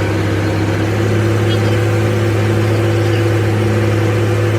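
Rebuilt bulldozer diesel engine running steadily at an even speed, a deep, constant hum.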